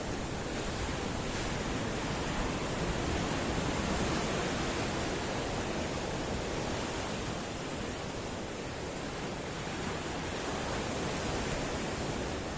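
Ocean surf: a steady wash of waves breaking, swelling slightly a few seconds in and easing off again.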